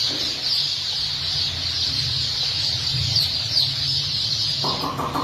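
A large flock of birds calling all at once: a dense, continuous chatter of many overlapping high chirps, with a low steady hum beneath.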